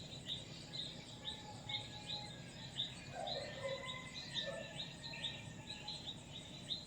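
Birds chirping: a short high chirp repeated evenly about two or three times a second, with a few lower calls from another bird near the middle.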